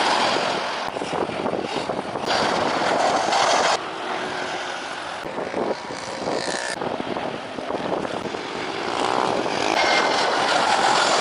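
Jet airliner engines running loud, a rushing noise with a faint whine near the end, cut into short pieces that change suddenly every second or two.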